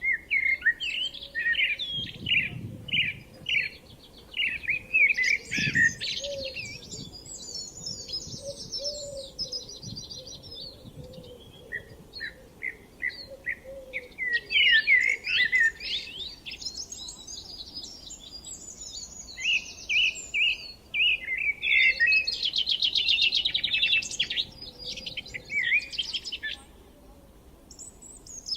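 Songbirds singing in a dense spring chorus of quick chirps and fast rattling trills, with a short quieter spell near the end.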